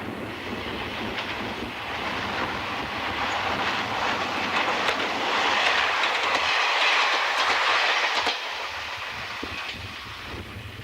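A train of KiHa 56-series diesel railcars passing, its wheels clattering over the rail joints. It grows louder to a peak about six to eight seconds in, then drops away quickly. Wind noise is on the microphone throughout.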